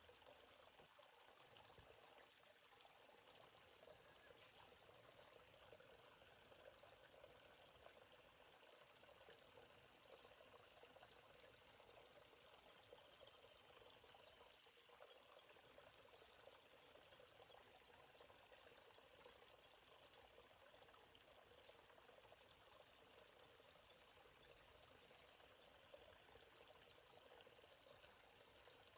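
Steady high-pitched trilling of insects over the faint, even rush of a babbling forest stream.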